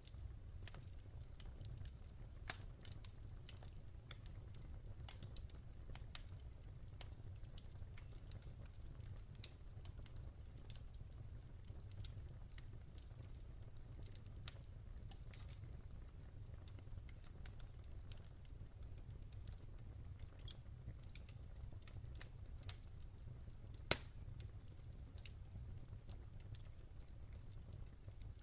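Wood campfire crackling: irregular small snaps and pops over a low steady rumble, with a louder pop about two and a half seconds in and the sharpest pop late on.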